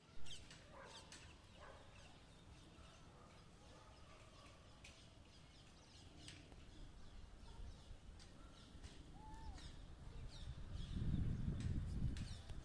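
Birds chirping: many short, high, falling chirps, with one longer rising-and-falling call about nine seconds in. A low rumble swells in the last two seconds.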